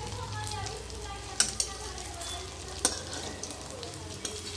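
Egg-shaped chhena paneer balls sizzling as they shallow-fry in a little oil in a kadhai, turned with a flat spatula that knocks sharply against the pan twice.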